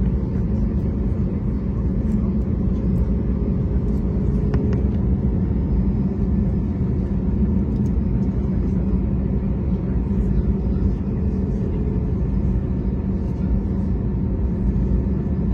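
Steady low rumble of a running engine, with a constant hum.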